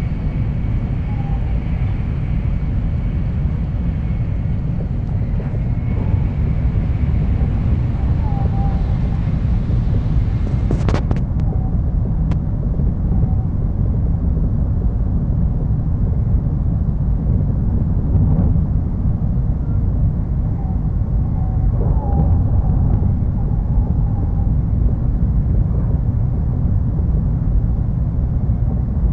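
Steady low rumble of a bullet train running at speed, heard from inside the passenger cabin. A couple of brief clicks come about eleven seconds in, after which the higher hiss drops away.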